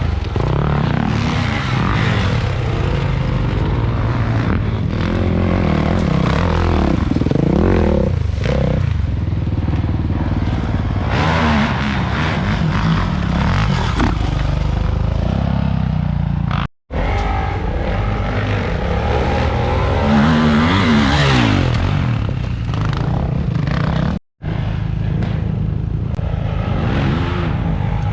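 Dirt bike engine revving up and down hard under load, with some scraping and clatter. The sound drops out briefly twice in the second half where clips are joined.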